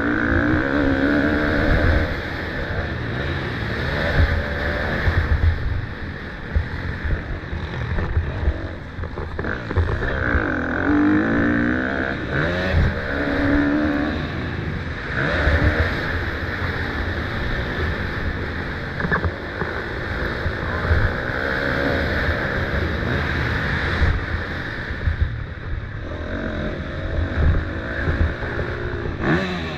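Motocross bike engines running on the track, revving up and falling back again and again as riders accelerate and back off.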